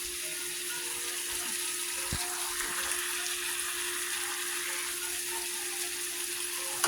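Ribeye steak sizzling steadily in a hot pan, with small crackles of spitting fat and a low steady hum underneath. A sharp tick sounds near the end.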